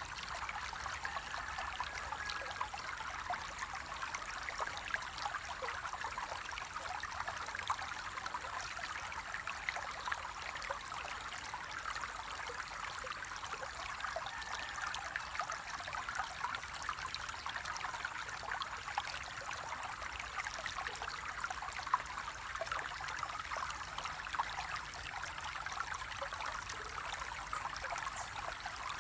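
Flowing water trickling steadily, with a constant fine splashing.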